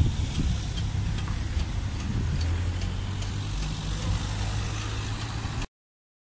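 Car engines idling in a queue at a closed level crossing, a steady low hum that cuts off suddenly near the end.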